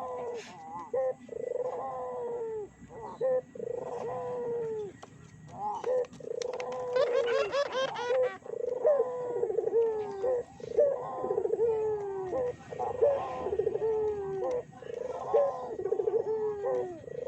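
Barbary doves (burung puter) cooing over and over, phrase after phrase about once a second, each coo sliding down in pitch. There is a short, fast, higher trill about seven seconds in. This is the kind of cooing used as a lure recording to set captive doves calling.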